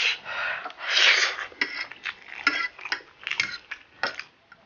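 Close-up mouth sounds of a person eating spicy ramen noodles: two short slurps, then wet chewing with many small clicks and smacks.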